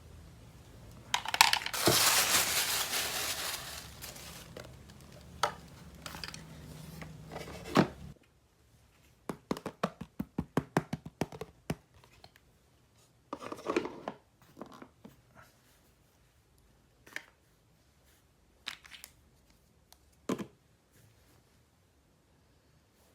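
Packaging being torn open and crinkled for a few seconds, followed by a quick run of small sharp clicks and then scattered taps and short rustles as toy pieces are handled.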